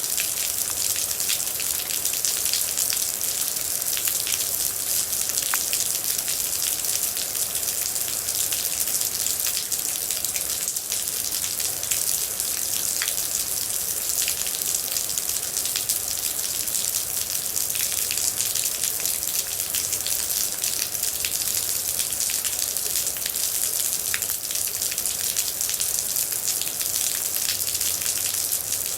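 Steady heavy rain with a dense patter of water droplets, bright and hissy, and a few sharper single drops standing out now and then.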